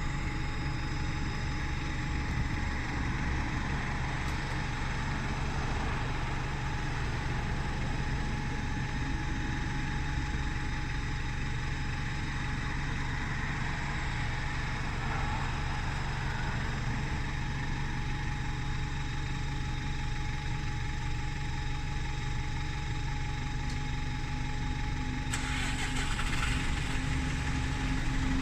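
Engine of a parked bus idling steadily, left running on a rest stand with no driver on board. A hissing noise starts suddenly about three seconds before the end.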